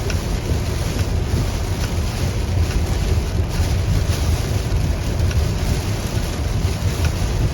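A car driving through a heavy downpour: a steady rush of rain and tyres on a wet road over a deep rumble, with scattered faint ticks of drops striking.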